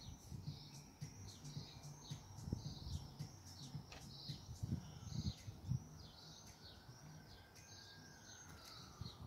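A small bird chirping and twittering in a quick, continuous run of short high notes, with faint low knocks underneath.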